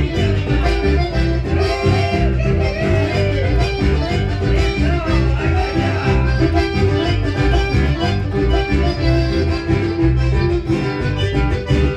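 A band playing Latin dance music, with a steady pulsing bass beat under guitar and melodic runs on top.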